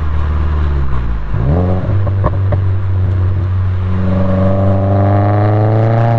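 Subaru WRX's turbocharged 2.0-litre flat-four through an Invidia downpipe and R400 exhaust. About a second in it downshifts, the revs jumping quickly, followed by two short sharp cracks. From about four seconds in the engine pulls up through the revs under acceleration, its note rising steadily, with a faint rising turbo whistle.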